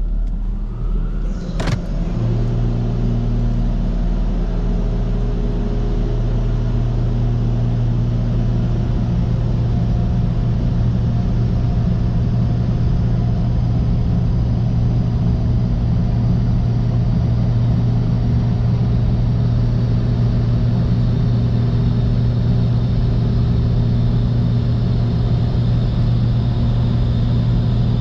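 The 2021 Camaro 2SS's 6.2-litre V8 running at a steady speed, a constant low drone that holds its pitch throughout. A short click comes about a second and a half in.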